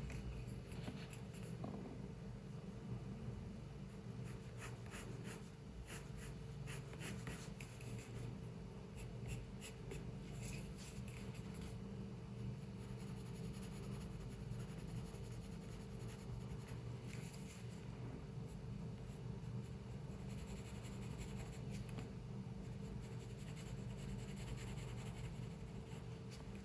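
Drawing strokes on paper: quick scratching strokes in bursts with short pauses between them, over a steady low hum in the room.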